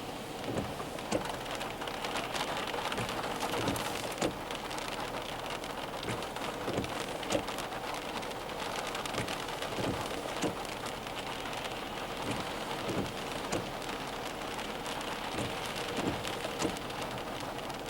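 Heavy rain from a monsoon thunderstorm falling steadily, with many sharp taps of drops striking a hard surface close by.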